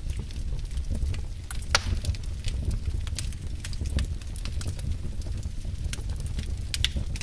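Wood fire crackling in a fireplace: scattered sharp pops and snaps over a steady low rumble of the flames, with one louder pop a little under two seconds in.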